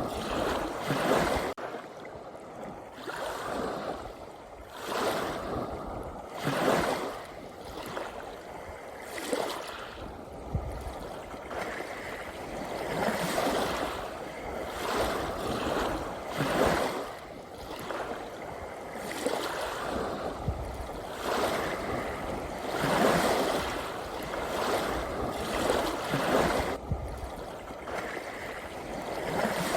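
Ocean waves washing in, each surge of surf swelling and falling away every two to four seconds over a steady wash.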